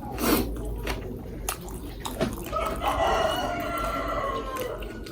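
A rooster crowing: one long crow starting about halfway through and lasting about two seconds, its pitch dropping slightly at the end. A few short clicks and taps come before it.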